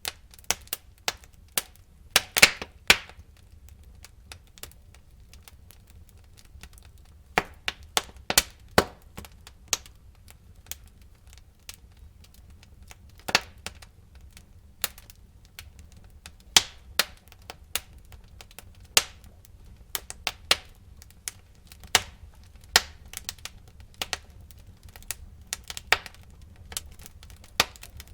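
Wood fire in a fireplace crackling, with irregular sharp pops and cracks from the burning logs over a faint low rumble of flame; a quick cluster of loud pops comes about two seconds in.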